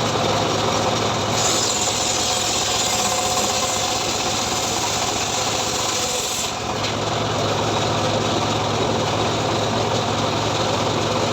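A homemade engine-driven sawmill running steadily, its blade ripping through a sengon log from about a second and a half in until about six and a half seconds, when the cutting hiss stops and only the engine is left running.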